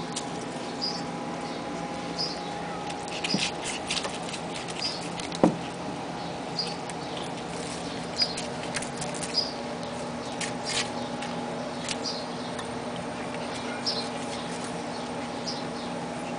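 Six-week-old husky puppies giving short, high-pitched squeaks, repeated roughly once a second, with scattered sharp clicks and a steady hum underneath.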